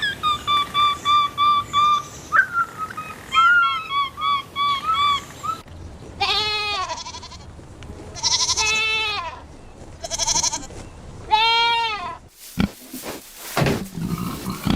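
Sheep or goat-type livestock bleating: four long, wavering bleats about two seconds apart in the second half. They follow a run of quick, short high calls in the first five seconds. A few sharp knocks come near the end.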